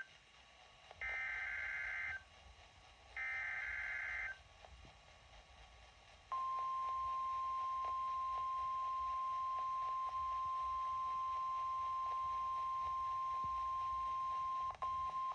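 NOAA Weather Radio emergency alert: the last two buzzy digital bursts of the SAME data header, each about a second long and a second apart, then, about six seconds in, the steady 1050 Hz warning alarm tone held for about nine seconds, signalling that a warning message follows.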